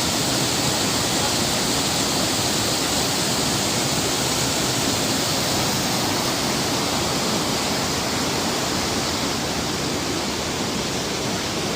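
Small waterfall: water falling and rushing steadily.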